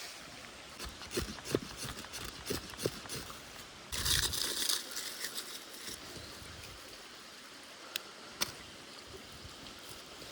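A small stream trickling steadily, with scattered light knocks and clicks, a brief louder rush about four seconds in, and two sharp clicks near the end.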